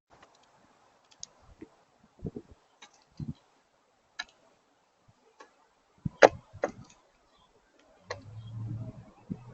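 Irregular sharp clicks and knocks with a few low thuds, the loudest click about six seconds in, and a brief low hum a little after eight seconds.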